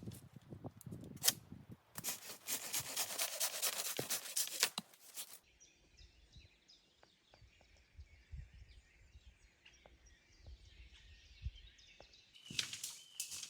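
Close, rapid crackling and rustling for about five seconds. It then gives way to a quieter stretch of faint birdsong, and the crackling comes back near the end.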